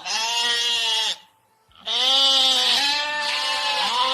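A recorded animal call sounds three times. Each call lasts about a second and holds a fairly steady pitch, with a short pause after the first and the last two running close together.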